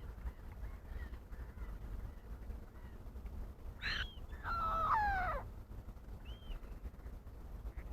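A wild bird at a pond calling: a short call about four seconds in, then a longer, louder call that slides down in pitch, and a brief faint call a second later, over a steady low rumble.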